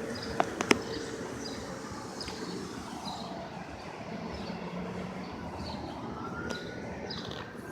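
Downtown street ambience: steady traffic noise with two sharp clicks about half a second in, and a faint tone near the end that rises and falls, which may be a distant siren.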